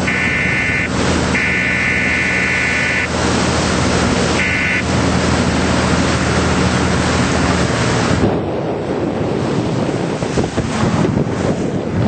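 A boat motor runs under way, with wind rushing over the microphone and water noise. Three electronic beeps sound in the first five seconds, and about eight seconds in the motor and the wind noise drop as the boat slows.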